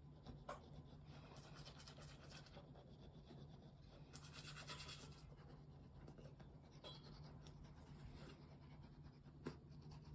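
Near silence with faint scratching and light clicks over a steady low hum, with a denser run of scratching about four seconds in.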